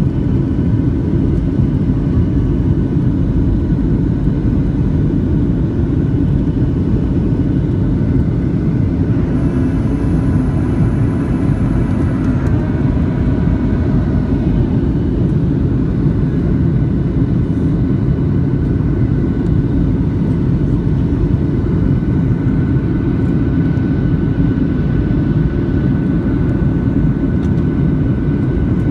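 Boeing 737-600 in flight, heard from inside the cabin: a steady, loud rush of engine and airflow noise with faint steady engine tones. About a third of the way in, a higher whine joins for about three seconds.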